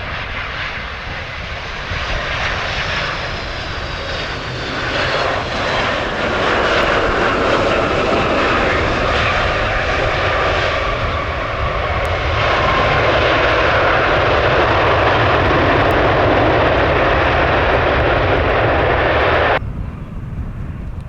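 Jet airliner's engines, the noise building steadily as the aircraft passes close, then cutting off suddenly near the end.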